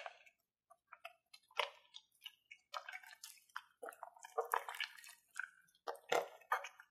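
Slime being squished and worked by hand, making irregular wet, sticky clicks and squelches, with a louder squelch right at the start and another about six seconds in.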